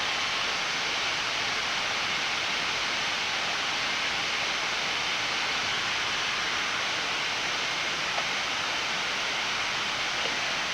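Steady rushing air noise on the flight deck of a Boeing 787-9 in descent, an even hiss that does not change, with a faint click about eight seconds in.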